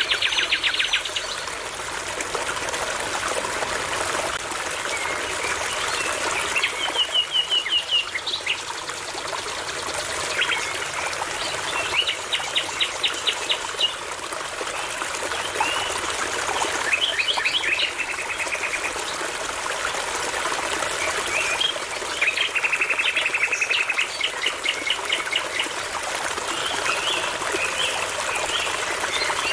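A small brook babbling steadily, with a nightingale singing short phrases of rapid repeated high notes every few seconds, about eight phrases in all.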